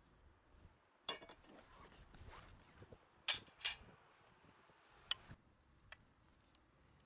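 A few short, sharp clicks and rustles of small objects being handled, about five over several seconds, with faint background between them.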